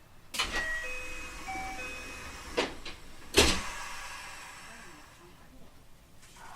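Sliding doors of a JR West 225-5000 series electric train closing: a few short steady chime tones sound, then the doors knock shut with a small bump and a louder thud about three and a half seconds in.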